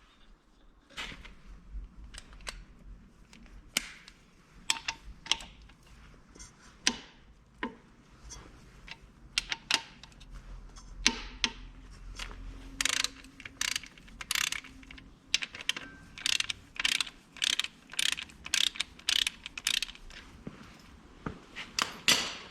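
Hand tools on metal engine parts: a long run of sharp, irregular clicks and clanks, sparse at first and coming about twice a second in the second half.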